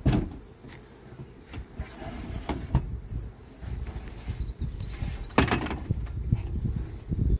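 Irregular knocks and clunks over a low rumble, the loudest at the very start and about five and a half seconds in.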